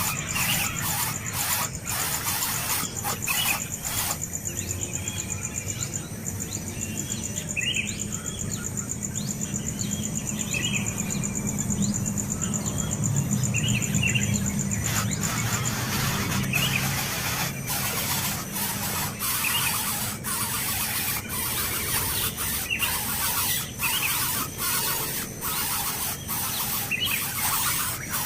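Baby birds begging with many short, shrill, squeaky calls, over frequent clicks and rustles.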